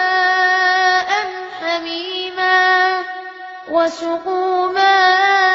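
Quran recitation chanted melodically in a high voice: long held, wavering notes draw out the end of one verse. After a short dip in the voice, the next verse begins near the end.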